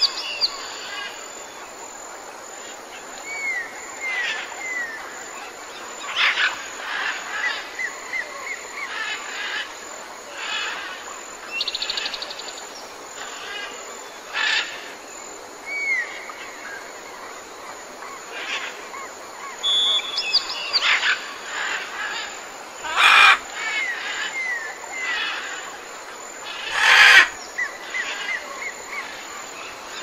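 Several wild birds calling and singing: runs of short whistled notes sliding down in pitch, with two louder calls about two-thirds of the way through, over a steady background hiss.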